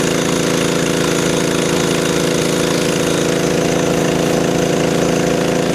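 An engine running steadily at a constant speed, with a fast, even low pulsing.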